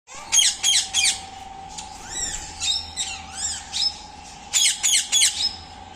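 Ringneck parakeets squawking: three sharp, loud squawks at the start, a run of softer rising-and-falling chattering calls in the middle, then three more sharp squawks near the end, over a steady hum.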